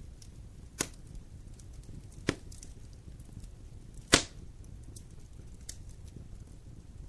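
Wood fire burning in a fireplace: a low steady rumble of flames with faint ticking and three sharp pops of burning wood, about a second in, past two seconds, and the loudest just after four seconds.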